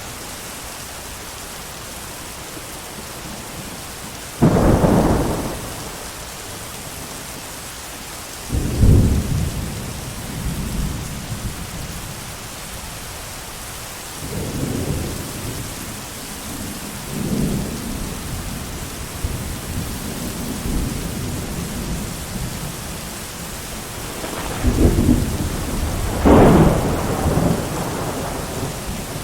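Steady heavy rain with repeated rolls of thunder: a sharp crack about four seconds in, further rumbles through the middle, and a loud double peal near the end.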